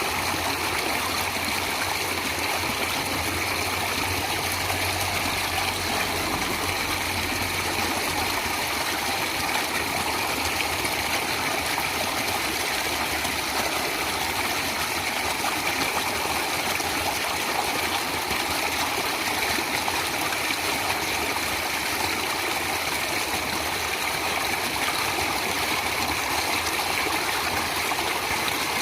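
Running water of a stream or small waterfall, a steady, unbroken rushing and trickling.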